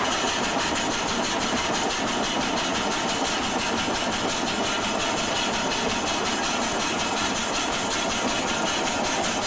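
Stationary steam engine of a sawmill running steadily, with an even, rapid beat of several strokes a second.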